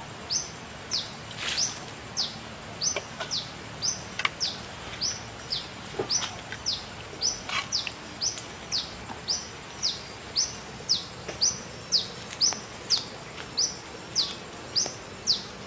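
A bird repeating a short, high chirp that falls in pitch, about two a second at an even pace, with a few light knocks mixed in.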